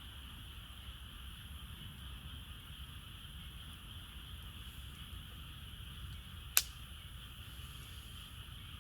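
Quiet campfire ambience with a steady high-pitched hum in the background, and a single sharp pop from the burning wood about six and a half seconds in.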